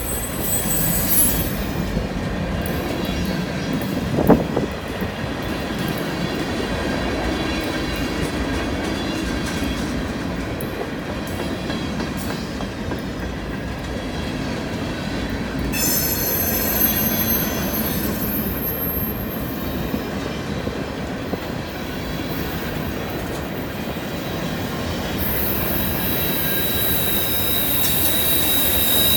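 Freight cars of a long freight train rolling past on a curve: a steady rumble of wheels on rail, with one sharp clank a few seconds in. High-pitched wheel squeal from the flanges on the curve comes in about halfway and grows stronger near the end.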